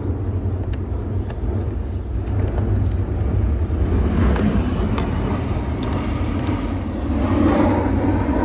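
Steady low vehicle engine rumble, with a few light clicks and a broader swell of noise near the end.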